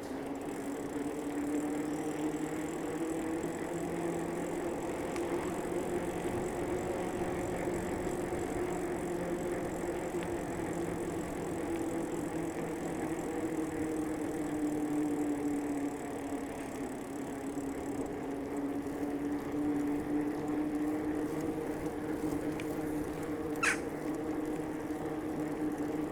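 Bicycle riding along a path, with the steady hum of tyres and drivetrain that drifts slightly in pitch with speed. A short high squeak comes near the end.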